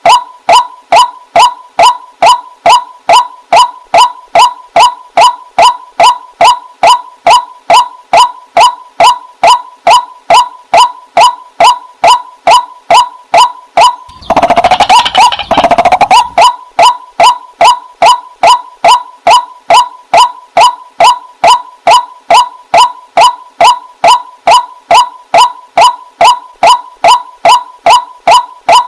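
Waterhen (jal murgi) calling: a loud, monotonous series of short, identical croaking notes, about two to three a second, broken about halfway through by a couple of seconds of denser, harsher calling before the steady series resumes.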